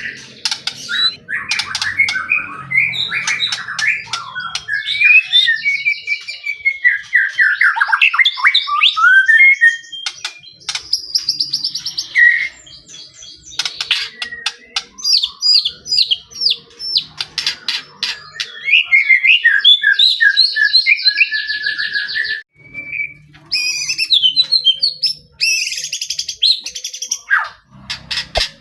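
A white-rumped shama singing in full, energetic song: a long, varied run of whistled phrases, rapid trills and harsh clicking notes, broken by short pauses.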